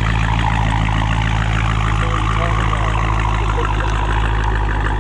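A vehicle engine idling steadily, a deep, even hum that does not change, with faint voices in the background.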